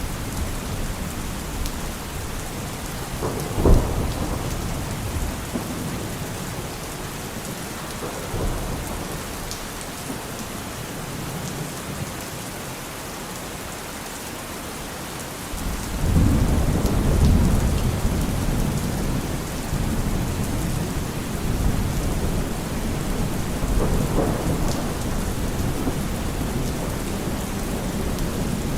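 Steady rain hiss with thunder: a sharp thunderclap about four seconds in, and a long low rumble that starts about halfway through and slowly dies away, with smaller rumbles between.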